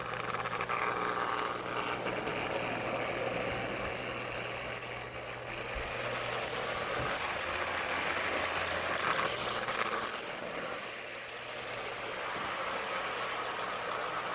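Marx Big Rail toy train running on its track: a steady whir and rattle from the locomotive's small motor and freshly re-greased gears and the wheels on the track, with a low hum through the first half.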